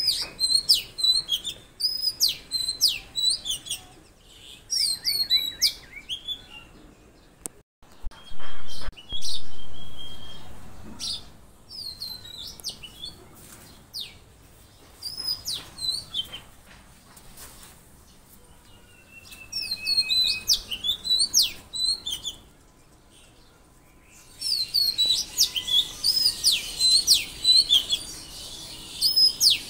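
Small songbirds chirping in quick bouts of repeated high notes, with pauses between bouts and dense chirping near the end. Two loud low bumps about eight and nine seconds in, the second fading away over a couple of seconds.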